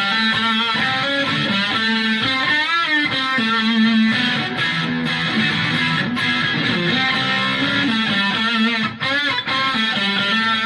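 Electric guitar played through a Boss DS-1 distortion pedal with the distortion turned all the way up, into the clean channel of a Fender Super Champ X2 amp. It plays sustained distorted notes and chords, with a bent, wavering note about three seconds in.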